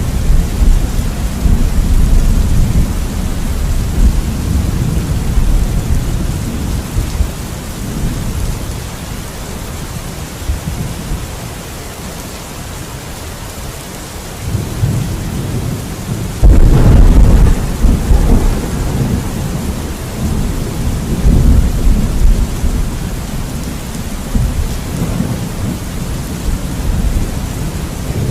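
Steady heavy rain with rolling thunder. The low rumble dies away over the first half, then a sudden loud thunderclap breaks about sixteen seconds in and rumbles on to the end.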